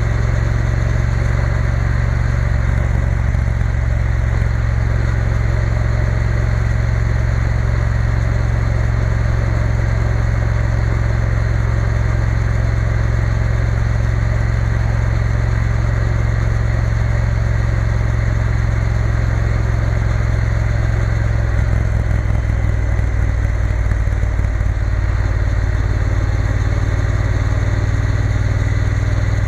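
Triumph Bonneville T120 parallel-twin engine running steadily under way, with a broad rush of wind and road noise over it; the engine note wavers briefly a little past two-thirds of the way through.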